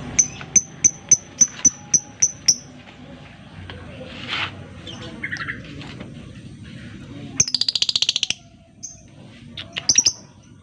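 Lovebird calling: a run of about nine sharp, high chirps over two and a half seconds, then a short, rapid buzzing trill about seven and a half seconds in, and a few more chirps near the end.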